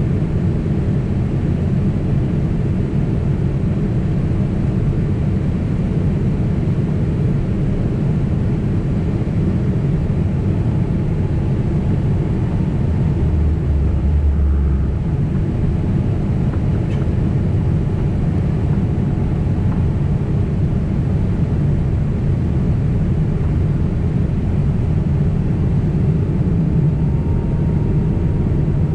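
Steady rumble of jet engines and rushing air inside the cabin of a Boeing 767 airliner in flight, with a brief deeper hum about halfway through.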